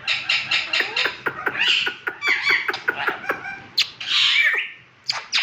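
Pet parakeets chattering: a rapid run of short sharp chirps and squeaks, with one longer harsh screech about four seconds in.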